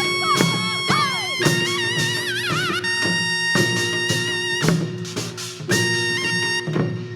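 Korean traditional music for a Jindo drum dance: a shrill wind instrument holds long high notes with bends and vibrato over repeated drum strokes.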